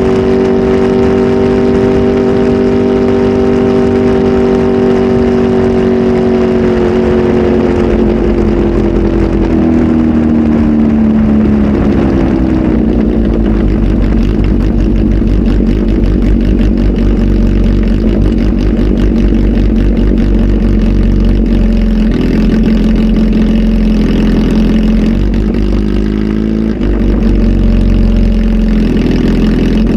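Kawasaki Z H2 SE's supercharged inline-four, flash-tuned and breathing through a full exhaust system, held at raised revs. Its revs then fall away over several seconds to a steady idle, with a few short throttle blips near the end.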